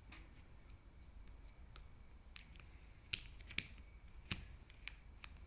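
Puzzle pieces clicking and tapping as they are handled and fitted: scattered light taps, then three sharper clicks about three to four seconds in.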